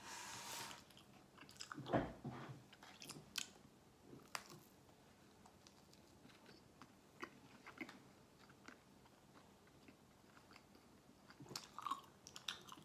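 Faint biting and chewing of chicken nuggets, with scattered small mouth clicks; the loudest bite comes about two seconds in.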